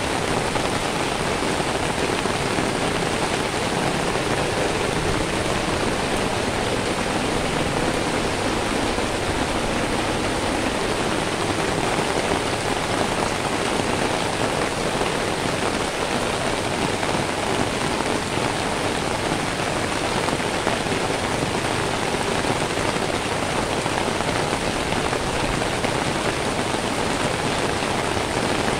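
Steady heavy rain falling and splashing on wet pavement, an even, unbroken hiss with no thunder.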